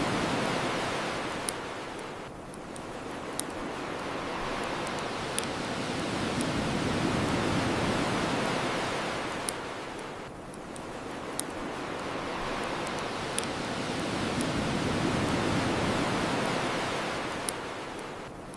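Ocean waves washing onto a shore, swelling and falling away twice, about every eight seconds, with sharp single pops from a crackling wood fire every two seconds or so.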